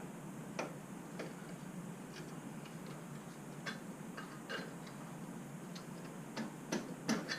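Scattered light metallic clicks and taps as a small pry tool works a spring clip off a motorcycle's chrome saddlebag support, with a few clicks close together near the end.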